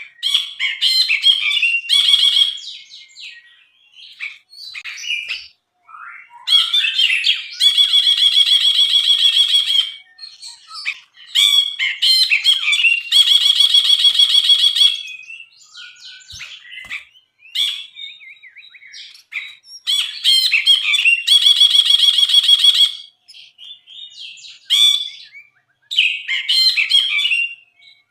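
A brinji, a bulbul, singing continuously in high chattering phrases broken by short pauses. Three times it breaks into a long, rapid, buzzy trill lasting about two seconds.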